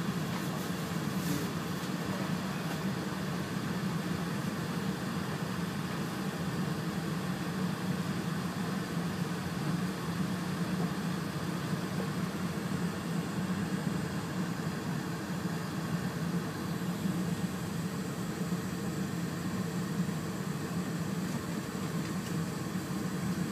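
Steady low hum and rumble inside an E4 series Shinkansen carriage as the train rolls slowly along a station platform, coming in to stop.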